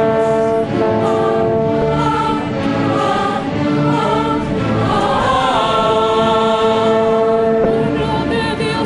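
A choir singing with an instrumental ensemble, in long held notes: sacred mission music.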